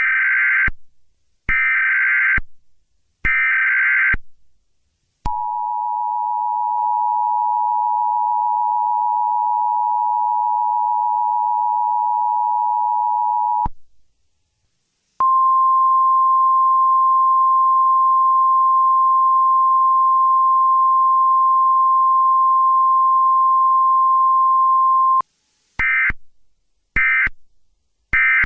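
Emergency Alert System alert tones. Three buzzing digital header bursts, then the two-tone EAS attention signal held for about eight seconds. After a short gap comes a single steady 1050 Hz alert tone for about ten seconds, and three shorter data bursts near the end.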